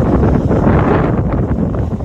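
Strong gusting wind from an approaching typhoon buffeting the microphone, a loud rumbling rush that rises and falls.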